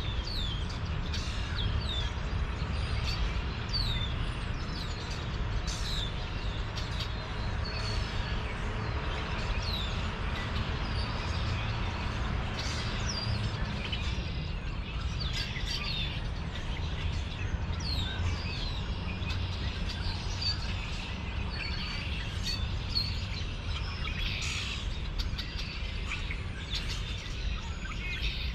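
Many small birds chirping, with short repeated chirps throughout, over a steady low rumble.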